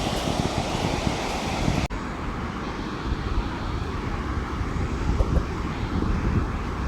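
Wind buffeting the microphone as a steady low rumbling noise, with an abrupt break about two seconds in.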